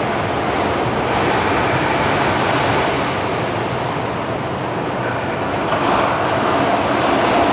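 Ocean surf washing steadily on the shore, with some wind on the microphone.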